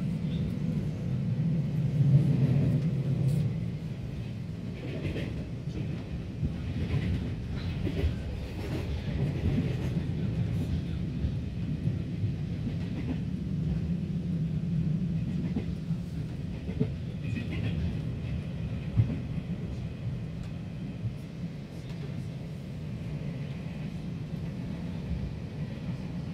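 Steady low rumble inside the cabin of an electric passenger train running along the track, with a few faint clicks and knocks.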